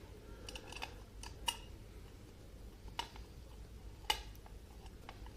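Light scattered clicks and taps of hand tools and engine covers being handled, the sharpest about a second and a half, three and four seconds in, over a faint low hum.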